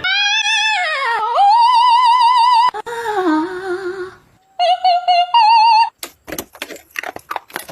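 A high voice sings long, wavering notes with heavy vibrato, sliding down and back up in pitch, as a song laid over the clip. Near the end it gives way to a quick run of irregular clicks and rustling.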